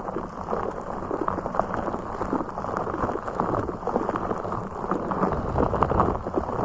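Close-miked ASMR handling of a blue fish object: a dense run of small crackling taps and scratches, with a low rumble swelling near the end.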